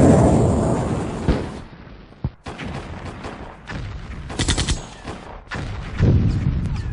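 Added battlefield gunfire sound effects: a loud rumble dies away over the first two seconds, then single rifle shots ring out, with a short rapid machine-gun burst about four and a half seconds in and heavier firing near the end.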